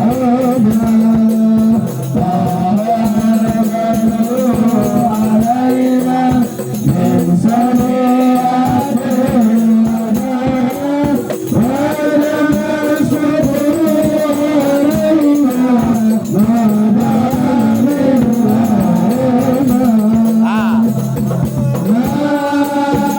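Devotional group singing with a steady beat of hand percussion with jingles, in the style of a maulid sholawat performance.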